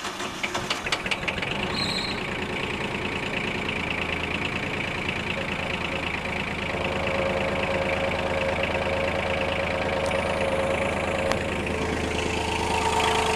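Farm tractor's engine started, catching suddenly and then running at a steady idle.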